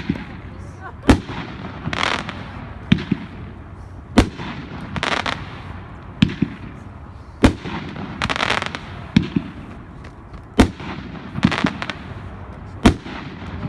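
A 500-gram consumer fireworks cake firing slowly, one shot at a time. Each sharp launch report is followed about a second later by a crackling break, repeating about every three seconds.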